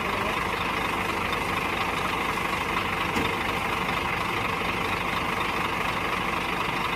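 Bus engine running steadily: an even, unchanging drone with no revving.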